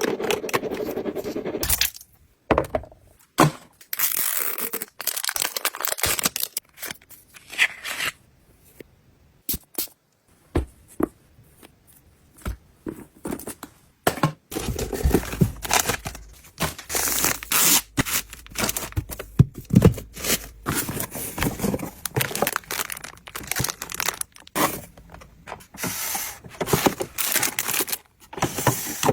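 Packaging being torn open and handled: irregular ripping, crinkling and scraping with short sharp taps, in uneven bursts with brief pauses.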